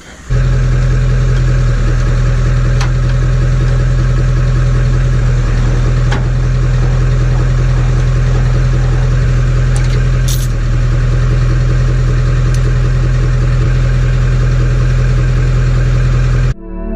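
Truck engine running at a steady speed, a loud constant hum with faint rattles, starting and stopping abruptly.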